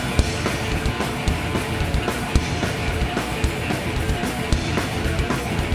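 Live rock band playing a loud, driving instrumental passage between sung lines: electric guitars, bass and a drum kit, with no vocals.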